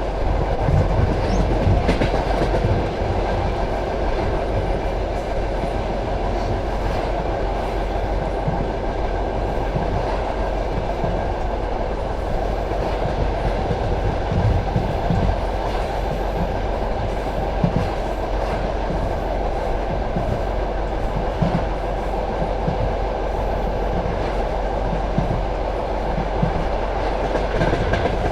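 Passenger train carriage running along the line, heard from inside: a steady rumble of wheels on the rails with irregular clacks as the wheels pass over rail joints.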